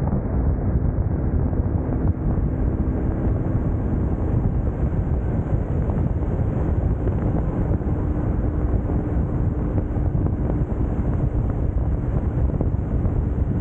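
Steady wind noise on the microphone of a moving motorcycle, with the BMW R1150GS Adventure's boxer-twin engine running steadily underneath.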